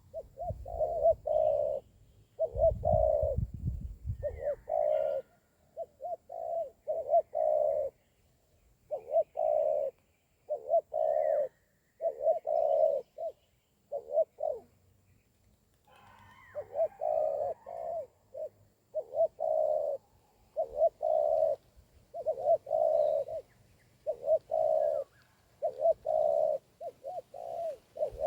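Spotted doves (tekukur) cooing, repeating short phrases of low coos separated by brief pauses. A few faint high chirps from small birds and a short low rumble about three seconds in.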